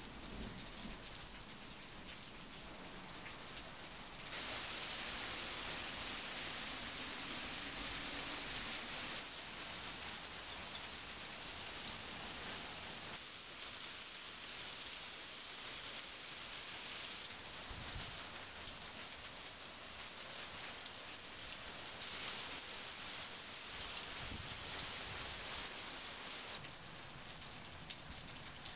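Heavy rain mixed with small hail falling on the ground and roofs: a steady hiss of many impacts that grows louder about four seconds in.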